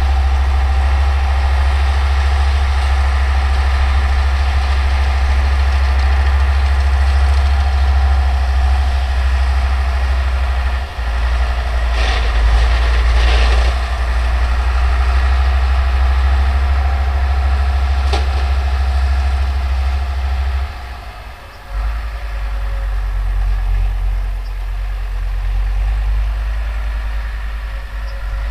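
An older Deutz tractor's engine running steadily while it pulls and drives a New Holland round baler, a low drone with the baler's machinery whirring above it. The level dips briefly twice, about 11 and 21 seconds in.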